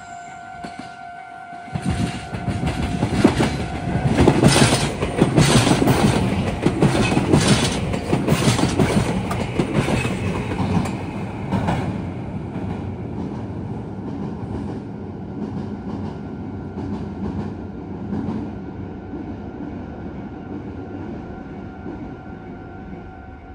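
A level crossing's warning bell is ringing when a red Meitetsu electric commuter train passes close by, its wheels clattering loudly over the rail joints and junction points from about two seconds in. The passing noise eases off after about twelve seconds into the quieter, steadier running of the train going away, and the crossing bell is heard again near the end.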